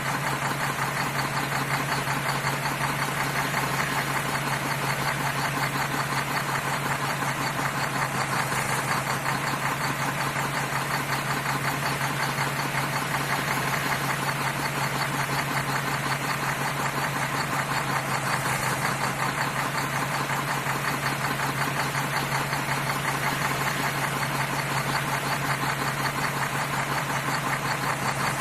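Tractor-style engine idling steadily with a fast, even knocking beat and no change in speed.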